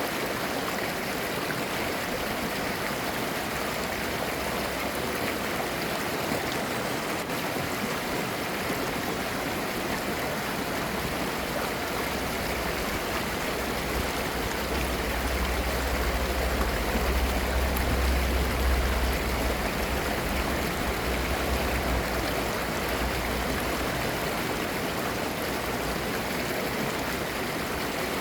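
Clear mountain valley stream babbling, a steady rush of running water. A low rumble swells in the middle and then fades.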